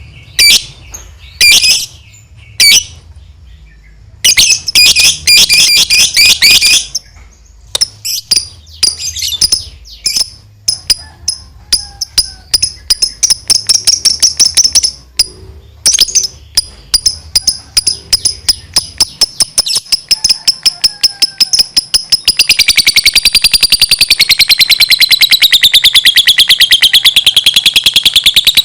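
Lovebird calling: sharp chirps and short chattering bursts that build into a long unbroken 'ngekek' trill, very rapid repeated notes wavering in pitch, over the last several seconds.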